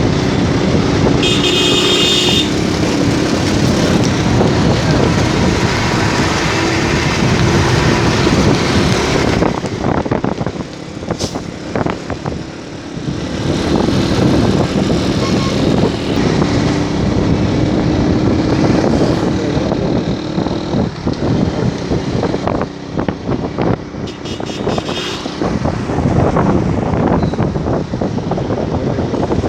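Motorcycle riding along a road: engine running under wind and road noise, with passing traffic. A horn sounds briefly about a second in and again near the end.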